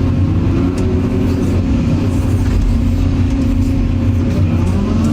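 Excavator's diesel engine running with a steady low drone, a faint tone in it rising slightly near the end.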